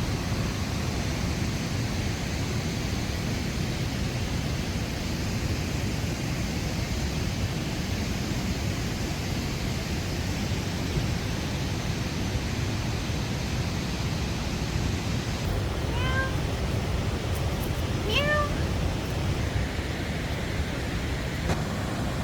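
A cat meowing twice, two short calls about two seconds apart, over a steady rushing background noise.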